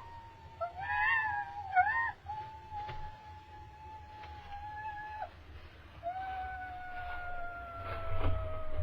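A young bird of prey giving long, drawn-out whistling begging calls, each held for a few seconds and sagging slightly in pitch, with a more wavering call about a second in. A few soft knocks come near the end.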